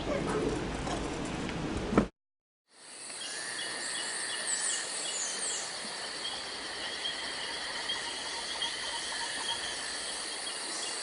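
Steady outdoor chorus of chirping insects with repeated bird chirps, beginning after a brief dropout about two seconds in.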